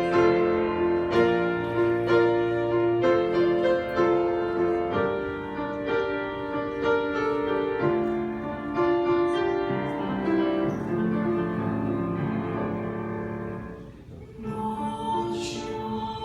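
Piano playing an instrumental introduction of struck, sustained chords, fading briefly about fourteen seconds in before it resumes.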